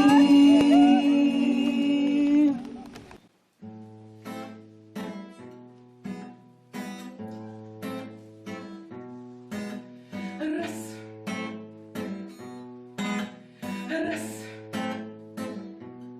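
A held final sung note with accompaniment ends about three seconds in. After a brief pause, an acoustic guitar starts a steady strummed introduction over low bass notes, about two strokes a second.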